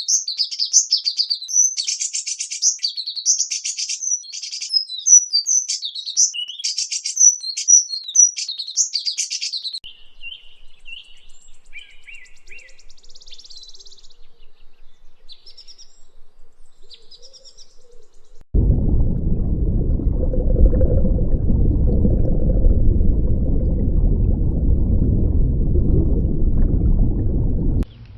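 Small birds chirping and trilling in quick, high notes, dense at first and then thinning to sparse, fainter chirps. About two-thirds of the way through, a loud, steady low rumbling noise starts suddenly and continues until near the end.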